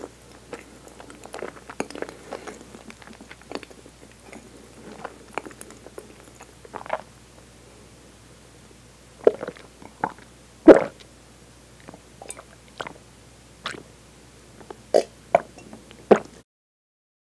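Close-miked chewing of soft food, with small wet mouth clicks. From about nine seconds in comes a run of louder swallows and gulps as milk is drunk from a glass, the loudest about ten seconds in.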